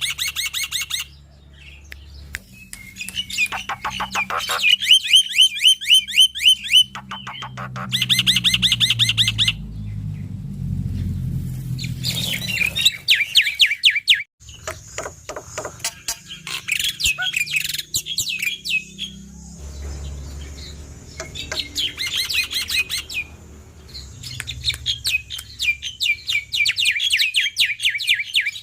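Male black-winged starling (jalak putih) singing loud and without pause in a long run of varied phrases: fast repeated notes and trills with harsh rattling notes, separated by short gaps.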